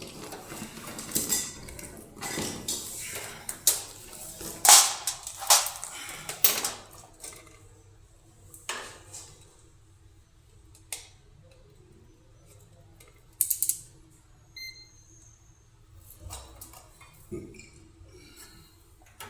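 Hand tools and metal parts clattering and clinking as they are rummaged through and handled, busiest in the first several seconds and then down to occasional single clicks. A short electronic beep sounds about two-thirds of the way through over a faint steady hum.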